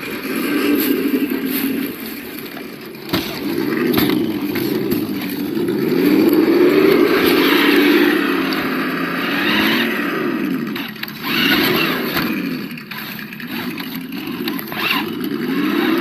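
Sound module of a 1:8 Absima Yucatan RC crawler, playing a simulated engine note from its small speaker. The note rises and falls again and again with the throttle, with a few short knocks along the way.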